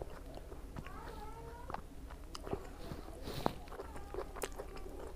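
Close-miked eating sounds: chewing with wet mouth clicks and short sharp clicks scattered throughout. Faint wavering tones come and go in the background.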